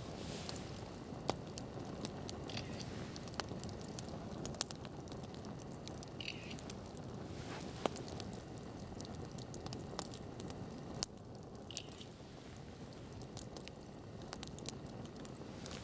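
Wood campfire crackling, with scattered sharp pops over a steady low rush.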